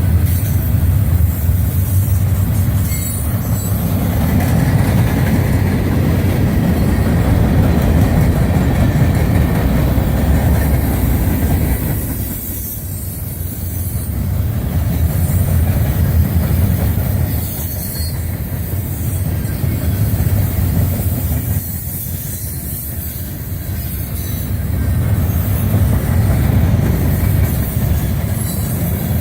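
Freight train of steel coil cars rolling past: a steady, loud rumble of wheels on rail that eases twice before swelling again.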